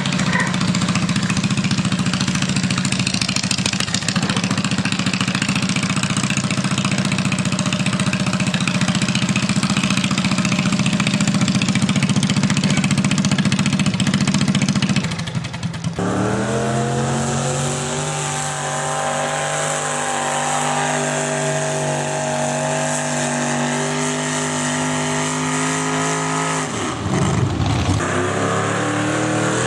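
Pulling tractor's engine running hard at high revs: loud and rough for about the first half, then a steadier, clearly pitched engine note. Near the end the revs drop briefly and climb back up.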